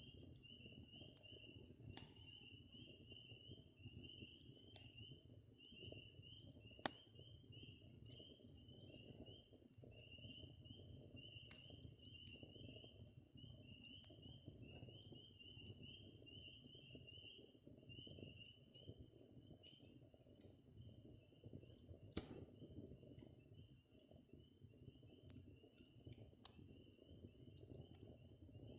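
Faint forest ambience: an insect, cricket-like, trilling steadily in a fast pulsing rhythm, over a low rumbling background with a few sharp pops or clicks.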